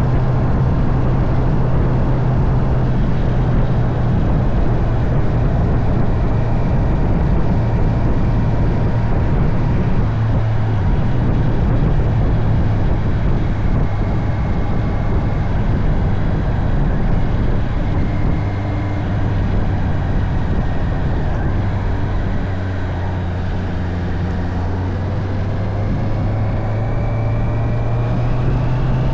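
Honda CB650R inline-four engine running under way, mixed with wind rush. The engine note drops about a third of the way in, stays lower through the latter half, and climbs again near the end.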